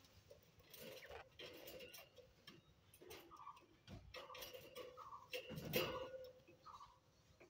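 Budgerigars chattering softly: scattered beak clicks and ticks mixed with short chirps, in an irregular run with no steady rhythm.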